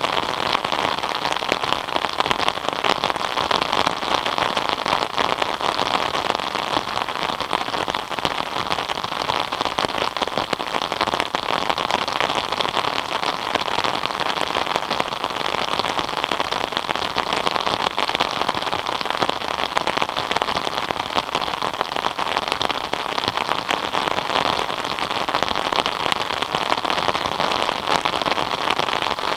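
Steady rain falling: a dense, even patter of countless drops that keeps up without a break.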